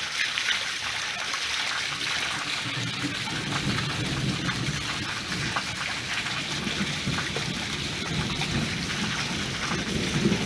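Steady rain falling on wet concrete and puddles, with a dense spatter of small drop hits. A low rumble comes up underneath from about two to three seconds in.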